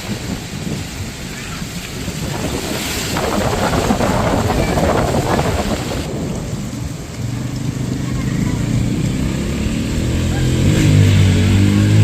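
Heavy rain and gusting wind with low thunder rumble. About six seconds in the sound changes abruptly: the rain hiss drops, and a steady low engine hum, like a vehicle running, comes in. The hum grows louder near the end.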